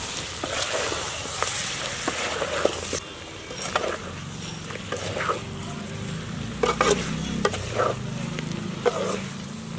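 Chicken fry sizzling in a large metal kadai as it is stirred and tossed with a steel ladle, the ladle scraping and knocking against the pan several times. The masala is being fried down nearly dry in its final minute on the heat.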